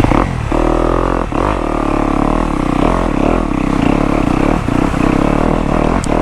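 Off-road dirt bike engine running at steady riding speed, with brief dips in the throttle a few times as the rider rolls off and back on.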